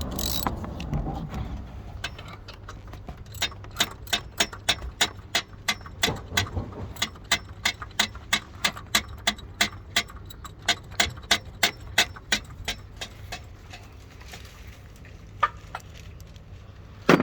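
Ratchet wrench clicking in a steady run of sharp ticks, about three a second, for roughly ten seconds, then a few stray clicks near the end, as a bolt is worked on a starter motor.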